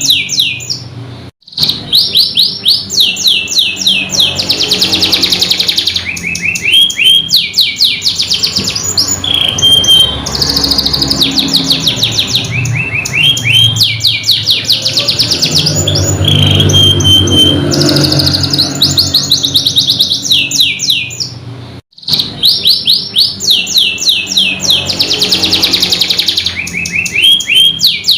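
Domestic canary singing a long, fast song of rolling trills and rapid repeated notes, high-pitched. The song breaks off for a moment twice, about a second in and again about 22 seconds in.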